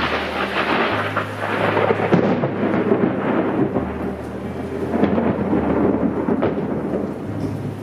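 Heavy rain pouring down in a loud, dense hiss. Under it runs a low bass hum that shifts pitch a few times.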